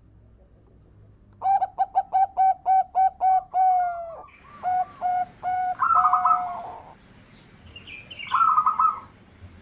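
Zebra dove (perkutut) cooing: a quick run of about ten clipped notes, about five a second, then a few longer drawn notes and a short rattling trill near the end.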